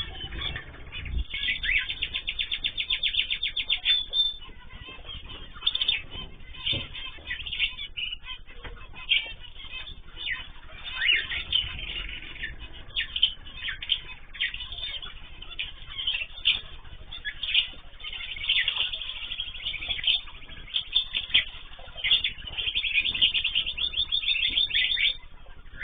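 Pet cage birds chirping and calling together in many short high notes, with rapid trills of quickly repeated notes about two seconds in and again near the end.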